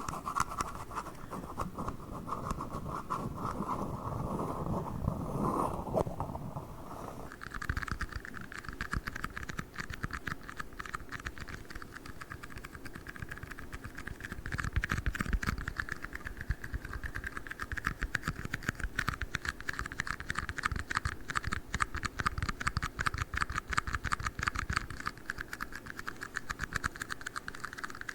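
Rapid ASMR scratching and tapping on tiny red cups, a dense stream of small clicks. About seven seconds in, the ringing tone of the clatter shifts higher.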